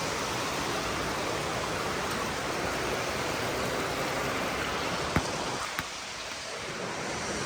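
Steady rushing of a waterfall, with one sharp click about five seconds in.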